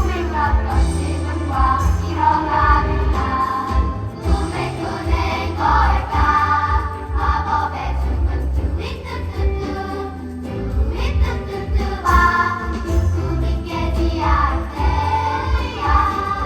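Musical number: a group of voices singing together over a backing track with a strong bass line.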